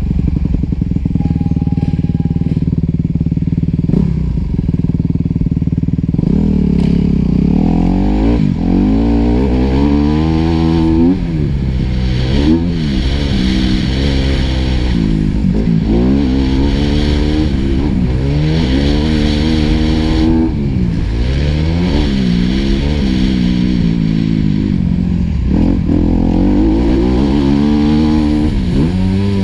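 Four-stroke motocross bike engine heard on board the bike. It runs at a steady low speed for about six seconds, then rises and falls in pitch again and again as the rider accelerates, shifts and rolls off the throttle around the track.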